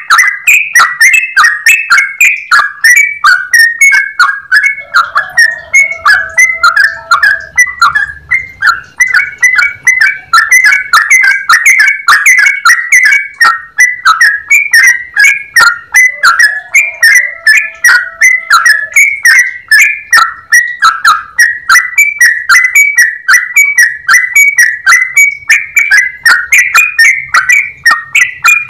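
Yellow-vented bulbul singing a long, unbroken run of quick, clear chirping notes, the rapid-fire 'ropel' song kept birds are trained on. A lower held note comes in twice.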